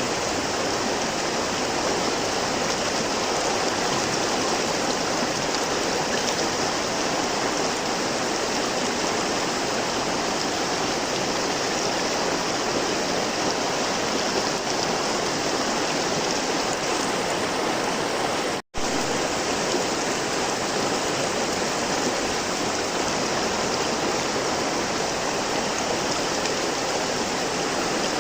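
River water flowing steadily, a continuous rushing hiss, broken once by a split-second gap of silence near two-thirds of the way through.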